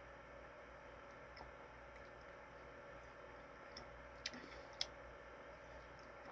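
Near silence: room tone, with a few faint clicks about four seconds in.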